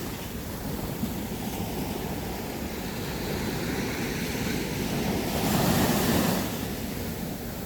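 Sea waves washing onto a beach. One wave swells up loudest about three-quarters of the way through, then ebbs back.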